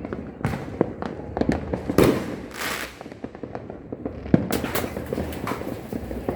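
New Year's fireworks and firecrackers going off all around: a dense run of sharp pops and crackling. A heavier bang about two seconds in is followed by a hiss, and another sharp bang comes about four and a half seconds in.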